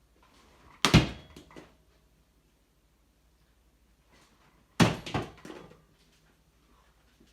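Two loud thumps, about four seconds apart, each sudden and followed by a short clattering tail that dies away within a second.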